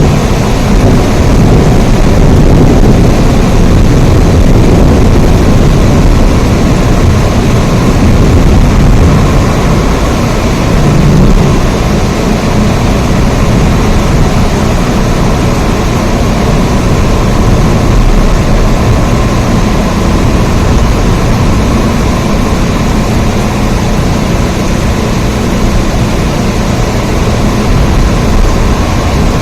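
Steady, heavy rain with a deep rumble, unbroken and even.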